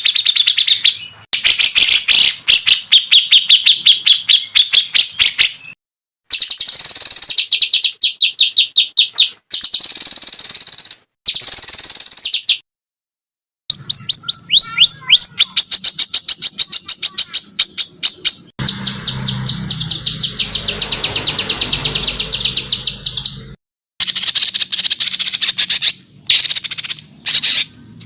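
Small songbirds on a masteran training recording: rapid, harsh chattering trills ('tembakan kasar'), many notes a second, in phrases that cut off abruptly into short silences. Around the middle comes one longer, dense buzzy trill.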